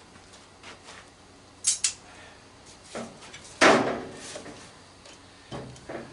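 Scattered clicks and knocks of metal parts and tools being handled while an old microwave is taken apart, with a quick double click early and a louder clatter in the middle.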